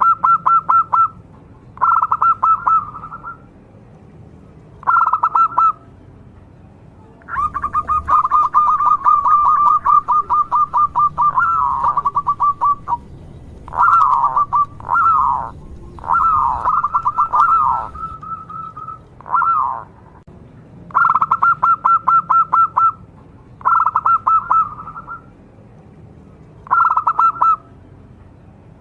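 Zebra dove (perkutut) singing: repeated bursts of rapid staccato cooing notes, mostly in phrases of about a second, with one long run of about five seconds and a few gliding notes in the middle.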